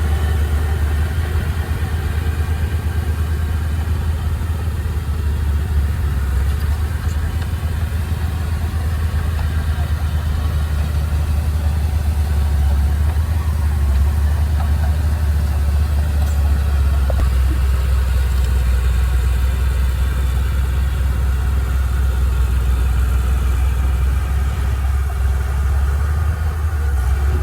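Heavy earthmoving machine's diesel engine running steadily, a constant low drone with no big revs or stops.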